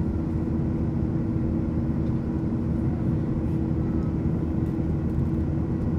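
Steady cabin drone of a Boeing 737-800 in flight: the hum of its CFM56-7B turbofan engines and airflow, with a constant tone over low rumble.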